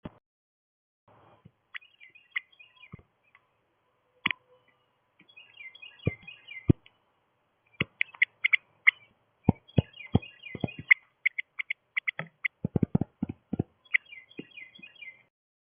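Small birds chirping in short twittering bursts, mixed with many sharp clicks and taps that come thicker in the second half.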